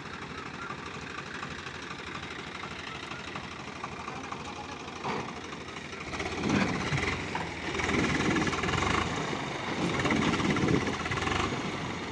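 Tractor engine running, getting louder and more uneven about halfway through.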